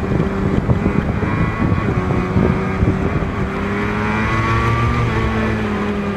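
Race motorcycle engines running at high revs, the pitch climbing over a couple of seconds and then dropping toward the end as the throttle and gears change.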